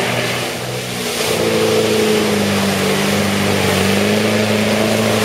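Land Rover Defender 90's engine running steadily under load as the truck drives through a deep mud hole. The sound eases slightly about a second in, then the revs pick up again.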